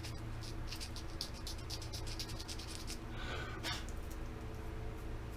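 Ultra coarse sandpaper scratching in rapid strokes across the smooth back of a small compass, roughing it up so glue will grip. The scratching stops about halfway through, a short rustle follows, and then only a steady low hum remains.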